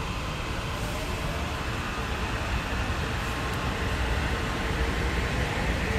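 Metro-North electric commuter train rolling past: a steady rumble of wheels on the rails that grows a little louder toward the end, with a faint whine.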